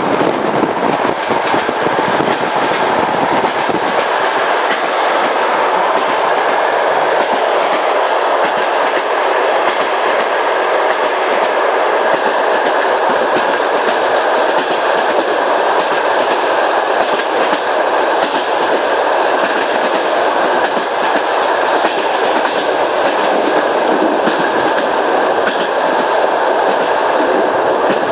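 Train running steadily, its wheels clicking over the rail joints again and again above a continuous rushing rumble.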